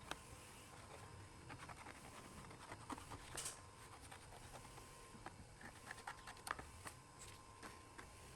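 Near silence, with faint scattered light clicks and small scrapes over a low steady hum.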